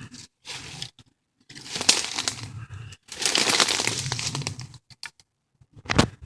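Footsteps crunching and crackling on a woodland path, in stretches with short quiet gaps between them, and a single sharp crack near the end.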